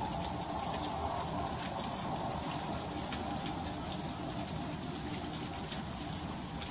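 Freezing rain in an ice storm: a steady hiss with many fine, quick ticks of drops striking surfaces.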